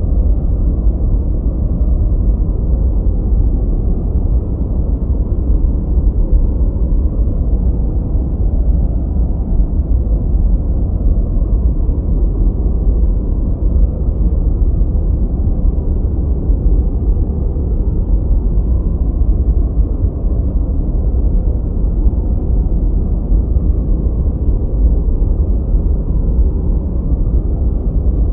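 Steady, deep rumbling noise track for studying or sleep, with no pitch or rhythm. Its weight lies in the bass and it has almost no hiss on top, so it sounds more like a muffled brown noise than bright white noise.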